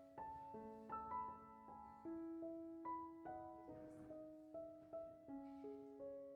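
Soft background piano music: a slow melody of held notes.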